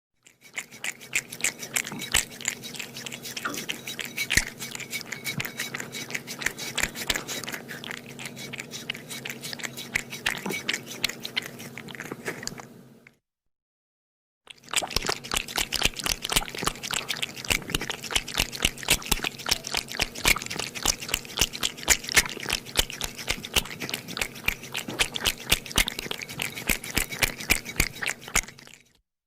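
A cat crunching dry food, many quick crunchy chews in a dense irregular run. Two stretches, broken by a short silence in the middle.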